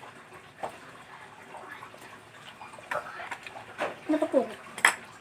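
Quiet eating noises from someone finishing a bowl of noodles: a few sharp clicks, the sharpest near the end, and a short voiced sound about four seconds in.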